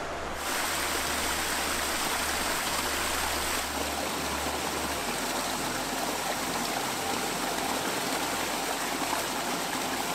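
Stream water rushing steadily over rocks. The level steps up about half a second in.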